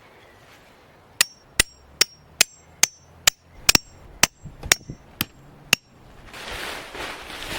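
A hammer striking metal about a dozen times in quick succession, roughly two to three blows a second, each blow with a short metallic ring. Near the end a rushing of wind rises.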